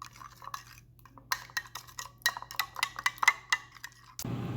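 A spoon clinking and tapping against a small bowl while stirring a sauce mixture, a quick run of light clicks. Near the end a steady hum comes in abruptly.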